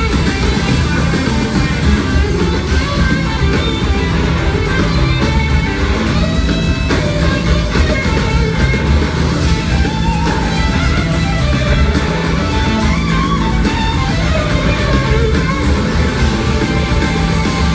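Live rock band playing loudly, with an electric slide guitar soloing in long, bending notes over bass and drums.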